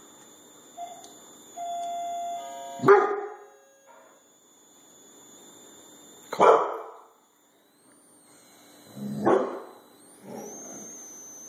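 A wireless doorbell chimes, and a pit bull answers with three loud barks a few seconds apart, reacting to the doorbell.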